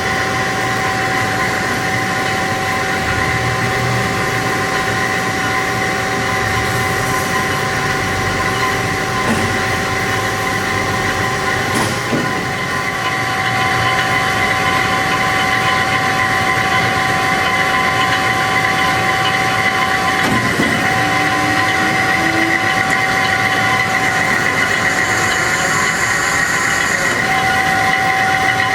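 HEM VT125HA-1 vertical tilt-frame band saw running, a steady mechanical din with a high, steady whine. There is a single sharp click about twelve seconds in, and the sound grows a little louder just after.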